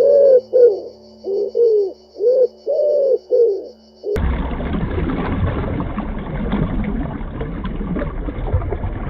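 An animal's short, low, hooting calls repeated about eight times over four seconds, each rising and falling in pitch. Then an abrupt cut to a steady rushing noise for the rest.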